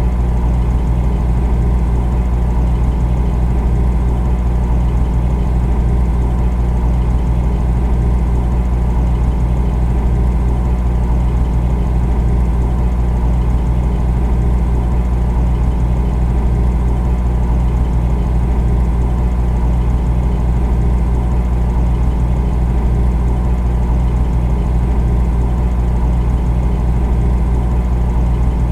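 Refrigerator running with a steady low hum that does not change.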